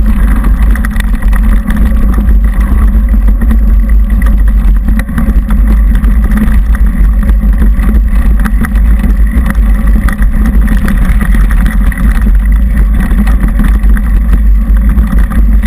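Mountain bike riding a dirt trail, heard through a bike-mounted GoPro: a loud, steady low rumble with frequent small knocks and rattles.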